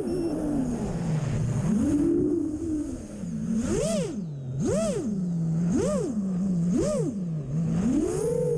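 iFlight XL7 6S quadcopter's brushless motors whining, the pitch sliding up and down with the throttle, then four quick throttle punches, each a sharp rise and fall in pitch, in the middle of the stretch.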